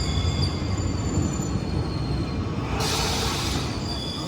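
Passenger train pulling into a station platform: a steady low rumble with thin, high wheel squeals, and a short burst of hissing about three seconds in.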